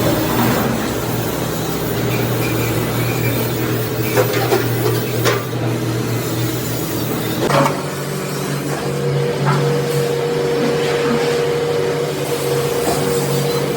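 Workshop machinery running with a steady hum that changes pitch about eight seconds in, with a few sharp metal knocks, three of them within the first eight seconds.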